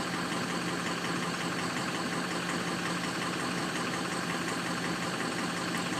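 Ford 6.0L Power Stroke diesel V8 idling steadily on a cold start, with a faint regular clatter. Some cylinders are not picking up, which the owner puts down to a weak injector control module (FICM).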